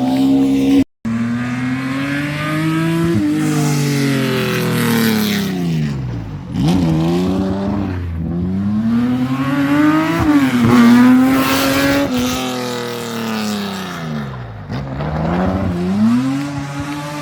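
Rally car engines revving hard on a special stage, pitch climbing under acceleration and dropping off several times over successive passes, with a brief cut to silence about a second in.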